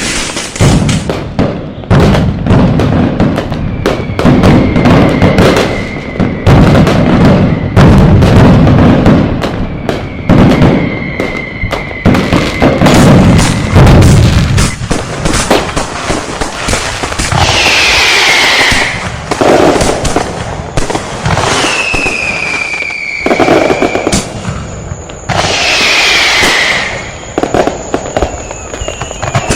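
Fireworks and firecrackers going off: rapid, uneven bangs, densest in the first half, with about six whistles that slide down in pitch, more frequent in the second half.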